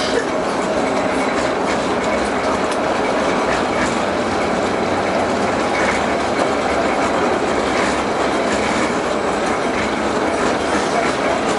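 LM-68M tram running along the track: a steady rolling rumble of wheels on rails with scattered light clicks.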